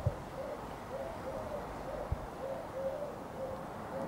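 A pigeon cooing: short, soft, arched notes repeating about twice a second. A brief low thump comes about two seconds in.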